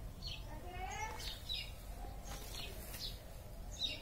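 Small birds chirping: short, high, falling chirps about twice a second, over a steady low rumble.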